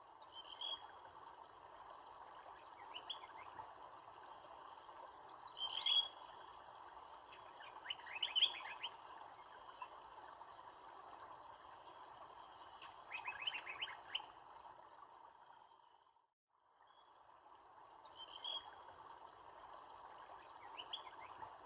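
Birds chirping, with a few quick trills, over a steady rushing background noise. The sound fades out briefly about two-thirds of the way through and comes back in.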